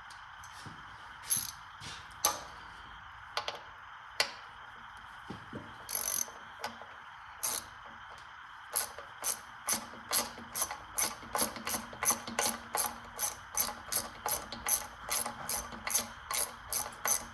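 Socket ratchet wrench clicking as it turns a bolt, with a few separate clicks and knocks at first, then about nine seconds in a steady run of about three ratchet clicks a second as the wrench is worked back and forth.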